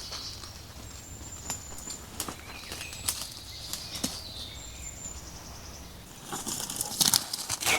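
Footsteps crackling and rustling through forest undergrowth, with scattered snaps, growing denser and louder near the end. A couple of brief, thin, high bird calls sound in between.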